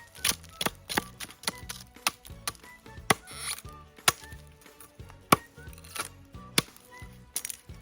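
Repeated sharp chopping knocks on a half-burnt log, about two to three a second at an uneven pace, as the charred outer layer is knocked off to reach the unburnt wood inside.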